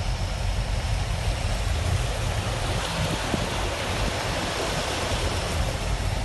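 Steady rushing of floodwater, with a low rumble underneath.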